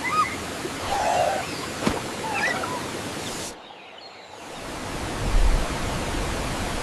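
Steady rushing water noise, like a waterfall, with a few short faint chirps in the first half. It breaks off about three and a half seconds in, and a second stretch of rushing water with a low rumble starts about a second later.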